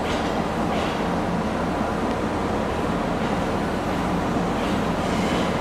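Abukuma Railway 8100 series electric train rolling slowly into the station platform, a steady rumble of wheels and running gear with two brief hisses, about a second in and near the end.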